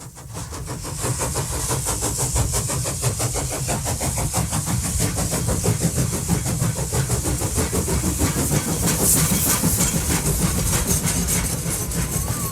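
An engine running steadily with a deep rumble and a high hiss, rising out of silence over the first second.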